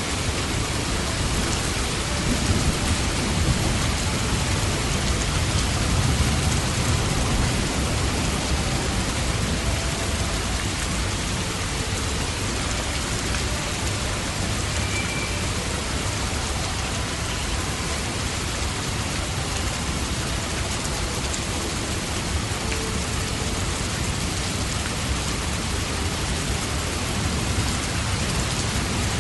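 Steady rain falling, with a low rumble of thunder that is strongest in the first several seconds.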